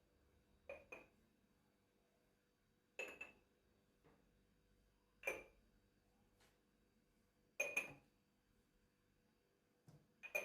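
Dishes clinking as they are handled and set down: sharp ringing knocks, mostly in pairs, every two or three seconds.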